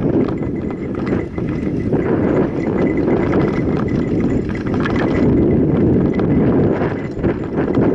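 Mountain bike riding over a rough dirt trail: a steady rush of tyre and air noise with rapid, irregular rattles and knocks from the bike.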